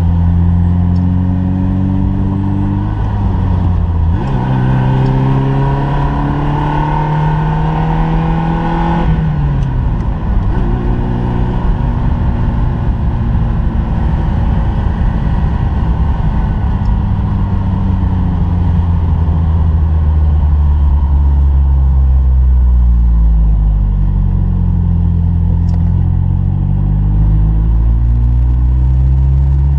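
Ferrari Mondial 3.2's V8 engine under way: the revs climb steadily for about five seconds, then fall sharply about nine seconds in. It then runs at steadier, lower revs, with another shift in pitch a little past two-thirds of the way through.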